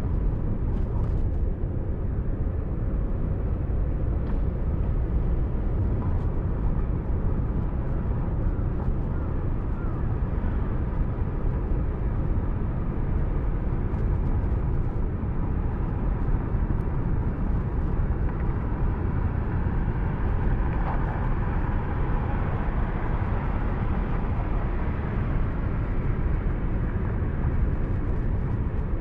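Steady low rumble of road and engine noise inside a moving car, picked up by a dashcam microphone.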